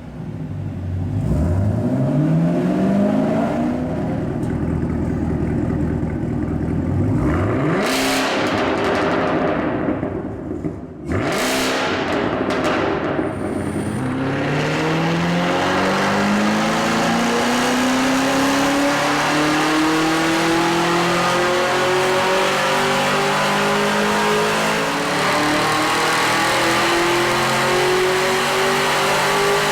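Chevrolet Camaro ZL1's supercharged 6.2-litre V8 running on a dyno through a GTC axle-back exhaust. The revs climb in short quick runs through the gears, with brief breaks at the shifts, then rise in one long slow pull at full load.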